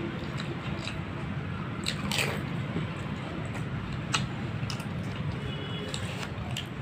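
Fuchka (panipuri) being bitten and chewed: crisp hollow puri shells filled with spiced water crunching and squishing in the mouth, with a few sharper crunches, the clearest about two seconds and about four seconds in.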